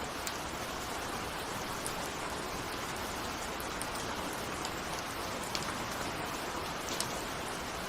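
Steady rain falling, an even hiss with a few sharper drops ticking out above it every second or two.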